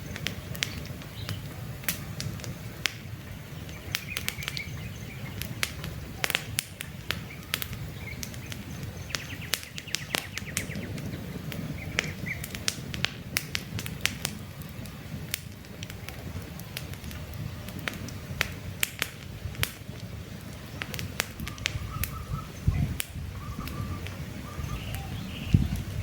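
Wood campfire crackling, with frequent sharp pops and snaps over a steady low rush of burning logs. Faint short bird chirps come and go in the background, a few of them near the end.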